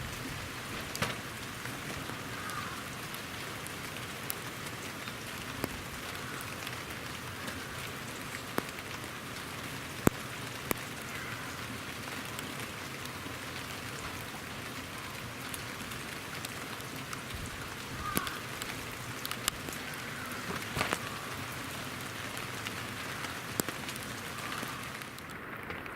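Steady rain, with many scattered sharp clicks of raindrops striking right at the microphone: rain falling directly on an unprotected video camera's built-in mic.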